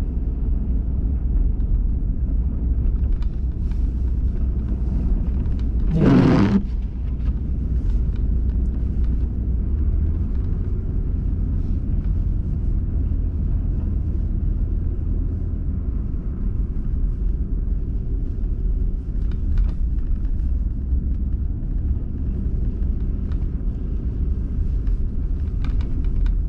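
Steady low rumble of a car driving, heard from inside the cabin. About six seconds in, a brief louder rush of noise cuts through.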